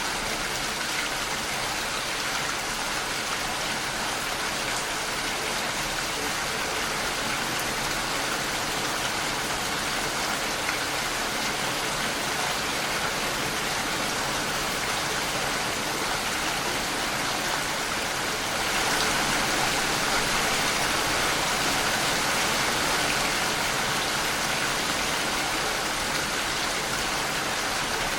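Steady rain falling, an even hiss of many drops. It gets a little heavier about two-thirds of the way through.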